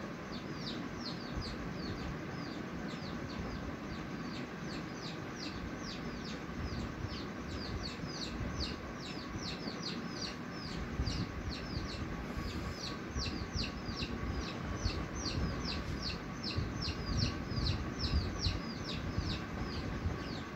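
A bird chirping over and over: a quick, steady series of short, falling chirps, two or three a second, over a low rumbling background.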